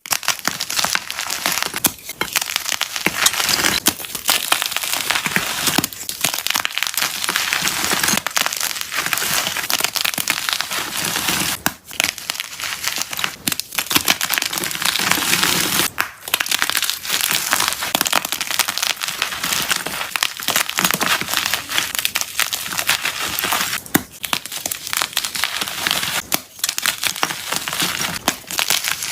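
Unpolished gym chalk (magnesium carbonate) blocks being crushed: a dense, continuous crunching and crumbling, broken by short pauses every few seconds.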